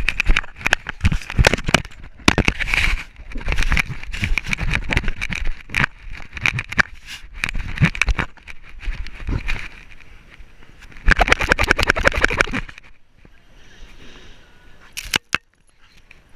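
A dog moving about with a GoPro strapped to it: rapid, irregular knocks and rattles of the camera mount and footfalls. The activity dies down about three-quarters of the way through, with a couple of sharp clicks near the end.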